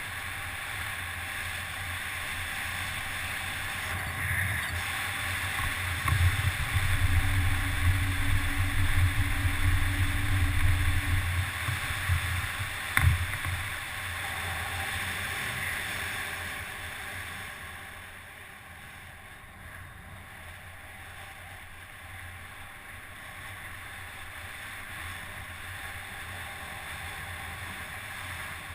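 Wind rushing over the microphone of a camera riding a mountain-bike descent, with a heavier low rumble for several seconds in the middle and one sharp knock about halfway through.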